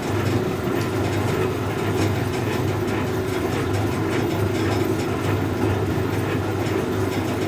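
1965 English Electric Liberator front-loading washing machine running mid-programme, its motor and drum giving a steady mechanical running noise with a low hum.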